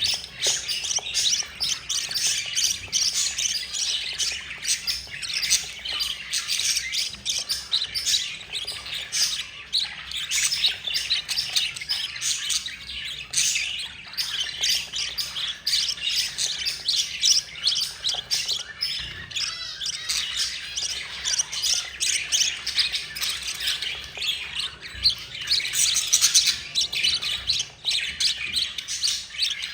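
Budgerigar chicks and their mother chirping and squawking without a break, a dense stream of rapid, high, raspy calls: the begging calls of nestlings being fed.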